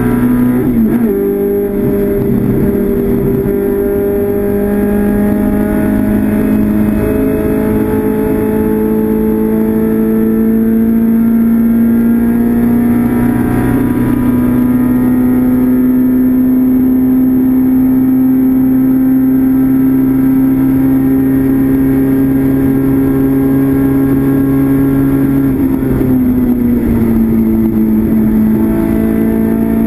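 Classic Mini race car's A-series four-cylinder engine heard from inside the cabin, running hard at racing revs. The pitch dips briefly about a second in, climbs, holds high and steady for much of the time, then drops near the end as the revs come down.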